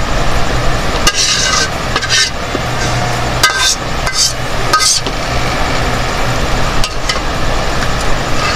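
Cooked adobo being scraped out of a metal wok onto a plate: several short scraping, clinking strokes in the first five seconds, then quieter, over a steady low hum.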